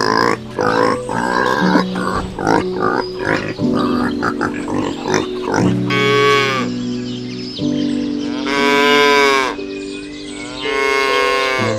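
Cattle mooing: three long calls in the second half, each rising and then falling in pitch, over background music with sustained chords.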